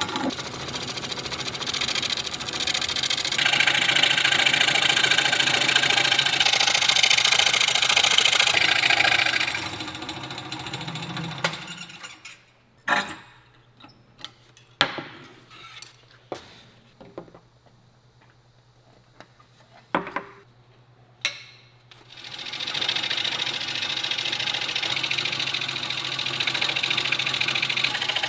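A woodworking power tool runs steadily for about ten seconds and then stops. Several separate sharp knocks and clicks follow, and the tool starts running again near the end.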